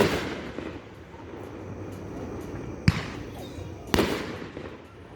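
Aerial fireworks: a shell bursts right at the start, then about three seconds in another is launched with a short, sharp thump and bursts about a second later. Each burst dies away over about a second.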